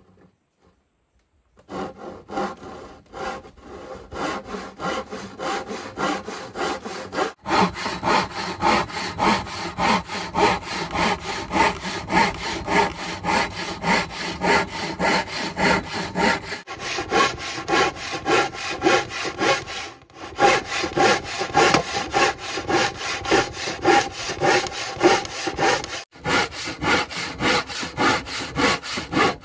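Hand saw cutting wood with steady back-and-forth strokes, about two a second, starting a couple of seconds in and pausing briefly a few times.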